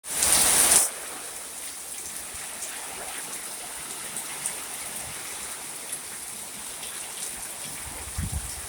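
Steady rain falling in a storm, an even hiss with scattered drop ticks, after a loud burst of noise in the first second. Low rumbling bursts come in near the end.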